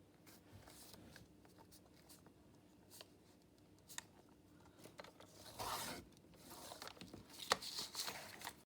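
Paper being handled and cut: light clicks and taps, then two spells of rustling, tearing paper noise with a sharp snap in the second, stopping abruptly near the end.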